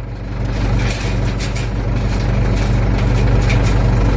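Ford 755 backhoe engine running steadily, its level picking up slightly in the first second.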